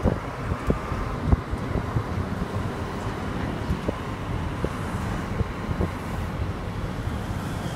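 Steady rumble of a train in motion heard from on board, with wind buffeting the microphone and irregular light clicks and knocks.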